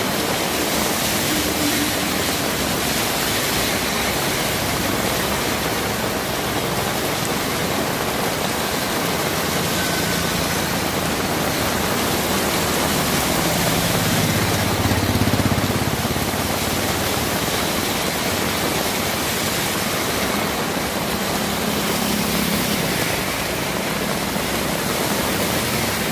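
Heavy rain falling as a steady, dense hiss. A low rumble swells briefly about halfway through.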